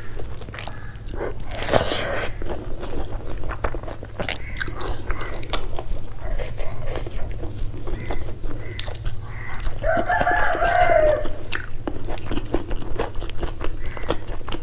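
Close-miked chewing and wet mouth smacks and clicks of a person eating rice and shrimp with her hands, over a low steady hum. About ten seconds in, a rooster crows once, for about a second.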